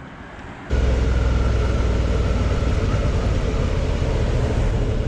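Suzuki V-Strom 650's V-twin engine running steadily under way, with wind rushing past, starting abruptly less than a second in.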